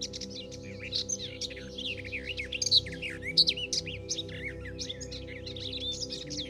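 A chorus of several songbirds singing in woodland, with dense overlapping chirps and trills, over a steady low drone.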